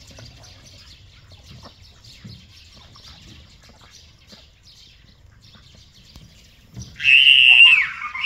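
Faint, scattered chirping of birds over a low background rumble. About seven seconds in, a loud, high bird call starts, holds for about a second, falls in pitch at its end and cuts off abruptly.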